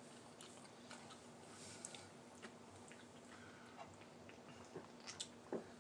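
Near silence: faint scattered clicks of someone chewing fried chicken, a little louder near the end, over a faint steady hum.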